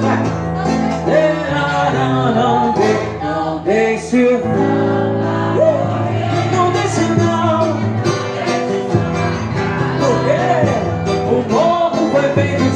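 A small band, a trio, playing a song: a lead voice sings over low bass notes and percussion.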